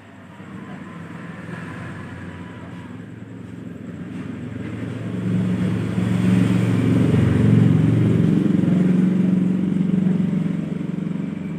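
A motor vehicle engine passing by: it grows louder over the first several seconds, is loudest in the latter half, and eases off near the end.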